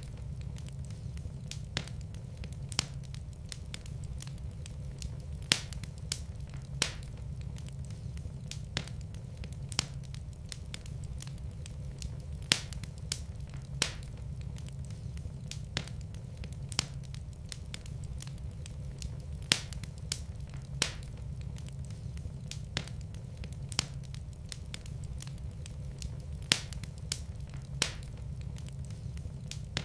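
Wood fire burning in a fireplace: a steady low rumble of flames with sharp pops and crackles at irregular intervals.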